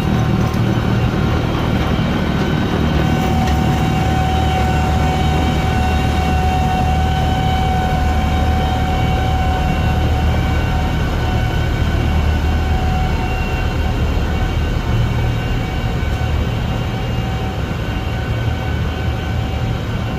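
Heavy snow-removal machinery running steadily: a low engine rumble with a constant high whine over it.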